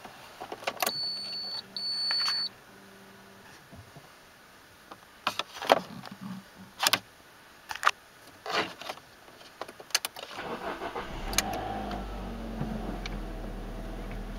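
Alfa Romeo 147's 1.6 Twin Spark four-cylinder engine being started: two high electronic beeps, then key clicks and jingling as the ignition is turned on. About ten seconds in the starter cranks, the engine catches with a brief rattle and settles into a steady idle.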